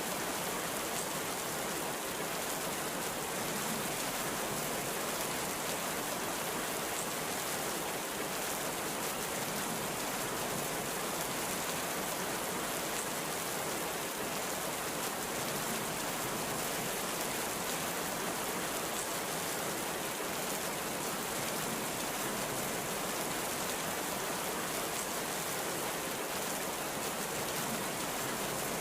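Heavy rain falling steadily, an even hiss with no rise or fall in loudness.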